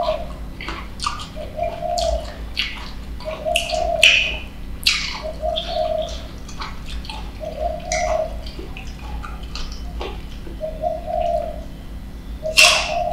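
Close-up biting and chewing of green mango slices, with crisp crunches, the loudest about four and five seconds in. Behind it a bird repeats a short, low call about every second and a half.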